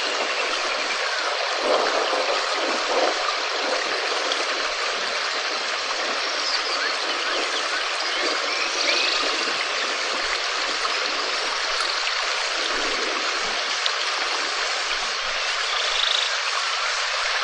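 Steady rain falling, an even hiss, with faint short animal calls now and then.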